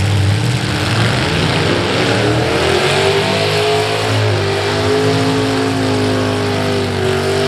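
A demolition derby car's V8 engine held at high revs, its pitch climbing a little over the first few seconds and then holding, over a steady rushing hiss.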